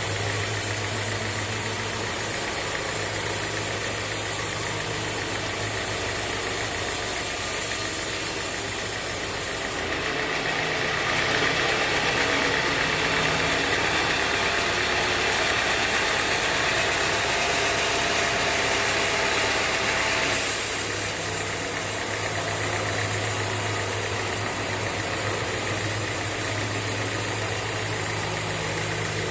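Band sawmill running with a steady engine hum. About a third of the way in, a louder hiss joins it for roughly ten seconds, the blade cutting through the teak log, and then it drops back to the hum alone.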